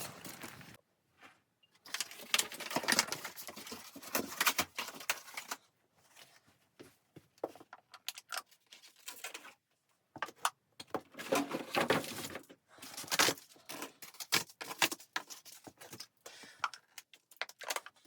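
Irregular bursts of rustling and clicking, a second or two each, with short pauses between.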